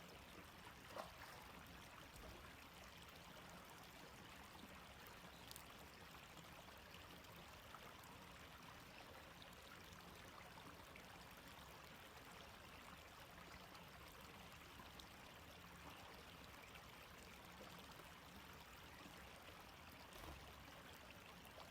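Faint, steady rush of flowing stream water, with a couple of brief faint clicks in the first few seconds.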